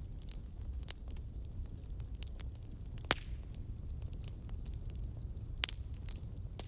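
Wood fire burning with a steady low rumble and scattered sharp crackles and pops, one louder pop about three seconds in.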